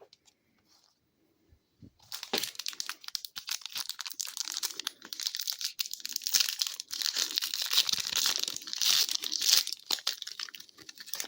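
Hockey card pack wrapper being torn open and crinkled in the hands, starting about two seconds in and running as a dense, irregular crackle.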